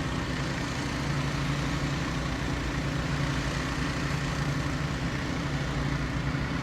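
Several engine-driven water pumps running at a constant steady drone, with no change in speed.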